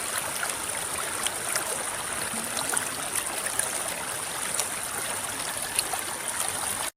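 A river's water rippling and babbling over stones, a steady rush with many small splashes and trickles through it. It cuts off suddenly near the end.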